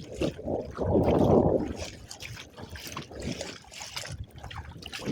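Kayak paddle strokes on choppy water: the blade dipping and splashing, water trickling off it, with a louder rush of water about a second in.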